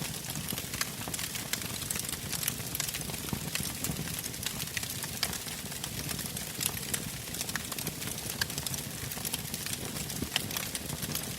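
Fire burning in a fireplace, crackling: frequent small sharp snaps and pops over a steady low rush of flame.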